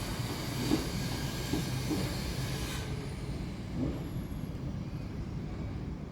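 Heavy machinery running with a steady low rumble. A high hiss cuts off suddenly about three seconds in, and three short creaks come within the first four seconds.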